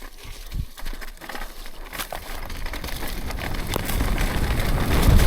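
Mountain bike rolling down a dirt run-in toward a jump. Tyre noise on dirt and wind on the microphone grow steadily louder as speed builds, with scattered clicks and rattles from the bike.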